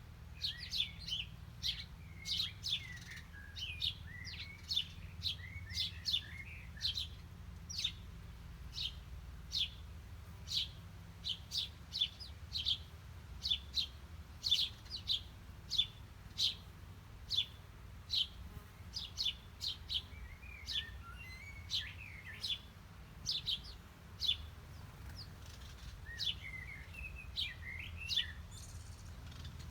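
Small songbirds chirping: a steady run of short, sharp, high chirps, about two a second, with bouts of softer, lower twittering now and then.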